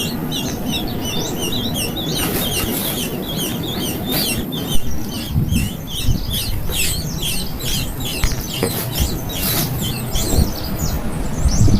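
Baby birds chirping: a fast, continuous run of short, high calls, several a second, over a steady low rumble.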